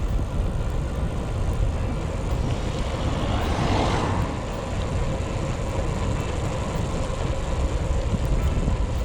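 Wind rumbling across a chest-mounted camera's microphone while a gravel bike rolls along tarmac, with a brief swell of hiss about three and a half seconds in.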